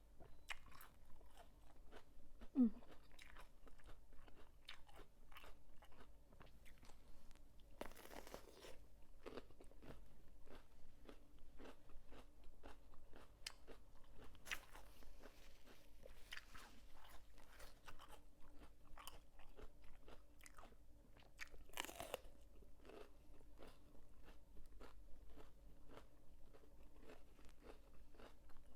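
Close-up chewing of crunchy squid salad: a steady run of small crisp crunches from the mouth, with a louder, longer crunch twice.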